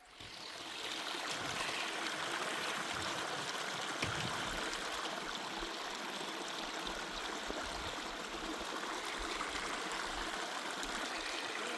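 Steady rush of running water, swelling up within the first second and then holding even.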